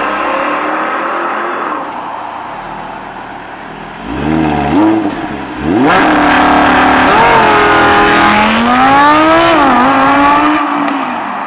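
A car's engine revving in a few short blips, then accelerating hard as it pulls away, the note climbing, dipping once and climbing again before fading near the end.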